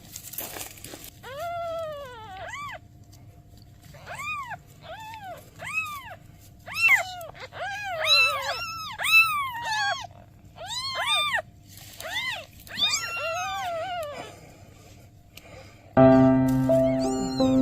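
Newborn kittens meowing: many short, high cries, each rising and falling in pitch, often several at once. Music starts near the end.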